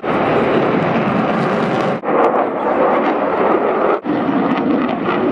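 Loud, steady aircraft engine noise in short spliced clips, changing abruptly at each cut about two and four seconds in.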